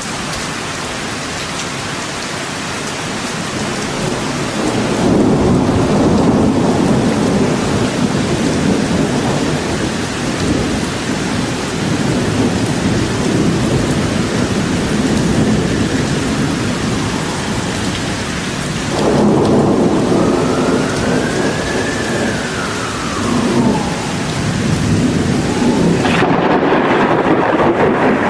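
Steady heavy rain with rolling thunder, the rumble swelling about 5 seconds in and again about 19 seconds in. A faint tone rises and then falls over a few seconds in the second half.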